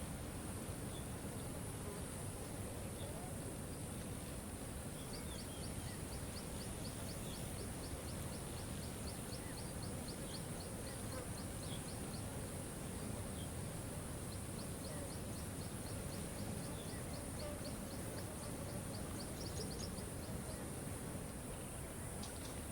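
Waterfall running with a steady rush, while a bird sings a long, fast trill of repeated high notes twice, about five notes a second, with a few scattered short chirps.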